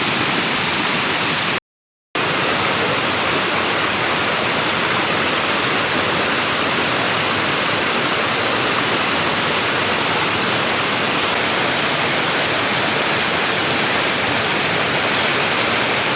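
Waterfall and its rushing stream, a steady rush of water that drops out completely for about half a second near the start.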